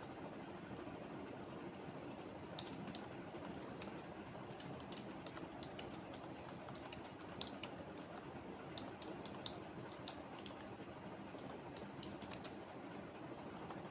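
Typing on a computer keyboard: irregular keystroke clicks that start about two and a half seconds in, over a steady background hiss.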